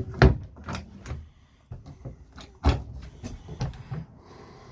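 Knocks and clatters of caravan storage cupboard doors being opened and shut, with two louder bangs, one just after the start and one about halfway through.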